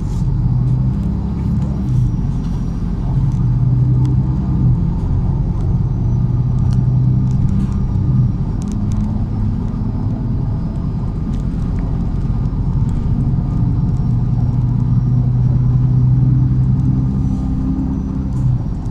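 MAZ-103 city bus engine running steadily as the bus drives, with occasional light clicks and rattles.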